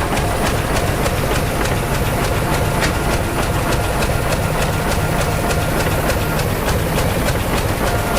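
Crawler bulldozer's diesel engine running steadily, with a regular clanking of its steel tracks at about four to five strokes a second.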